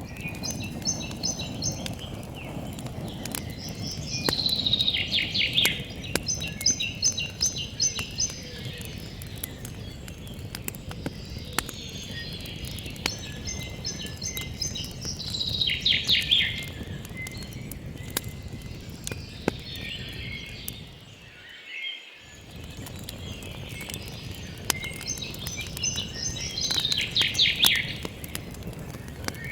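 Campfire crackling with sharp pops over a steady low rush, while a songbird sings the same short song three times, each a run of quick repeated notes ending in a fast falling trill. The sound drops out briefly about two-thirds of the way through.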